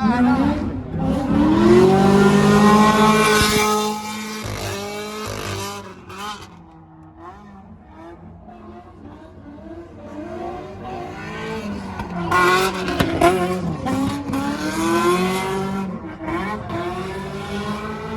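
Drift car's engine revving hard with tyres squealing as it slides sideways, in two passes: one loud run in the first four seconds and another from about twelve to sixteen seconds in, with the engine fading lower in between.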